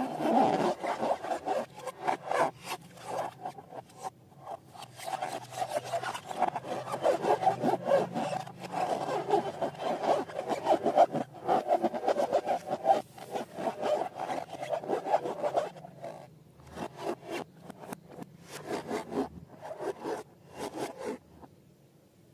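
Slime being worked and mixed: a dense run of quick rubbing, crackling strokes that thins out into separate bursts after about 16 s and stops shortly before the end.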